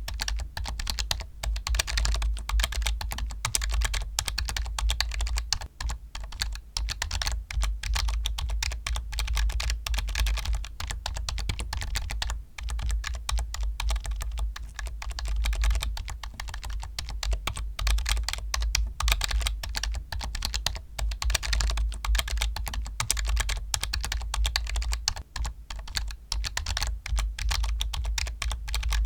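Continuous fast typing on a computer keyboard: a dense, unbroken stream of key clicks with a low hum underneath.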